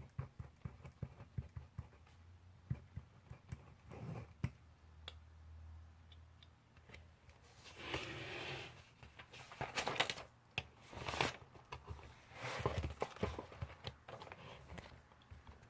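Pencil writing on paper: light taps and short scratchy strokes, with a few longer scratching passes about halfway through and again near the end.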